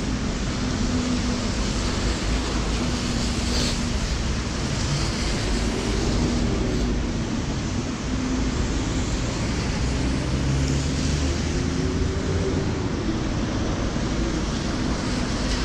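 Steady rain falling on a clear umbrella overhead, mixed with the continuous hiss of traffic on a wet road and a low hum of passing vehicle engines.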